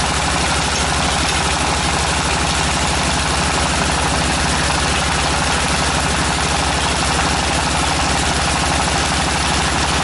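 The tractor engine of a tractor-mounted water well drilling rig, running steadily at a constant speed with a rapid, even pulse.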